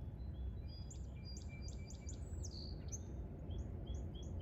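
Small birds chirping over a steady low rumble: a run of quick chirps in the first half, then a short note repeated about four times a second.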